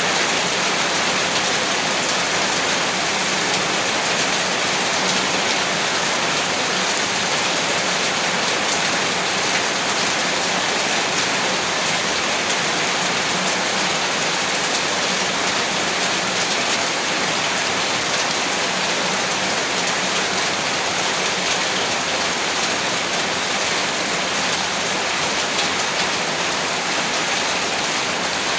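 Heavy rain falling steadily, a dense even hiss with faint scattered drop patter.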